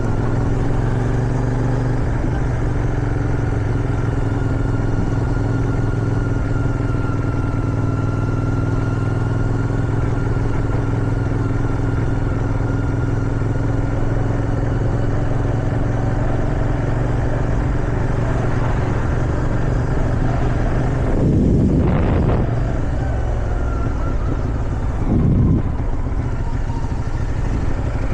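Motorcycle engine, likely a CFMoto 450SR twin, running steadily while riding. About three-quarters of the way through the revs rise sharply as the throttle opens, and a few seconds later there is a short rev blip.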